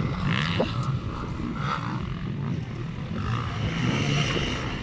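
Motocross bike engines running, a steady droning sound.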